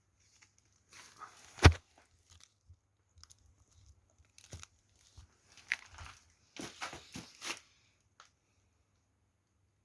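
Scattered knocks, clicks and rustling handling noises, with one sharp loud knock about two seconds in and a quick cluster of knocks near the end; no engine running.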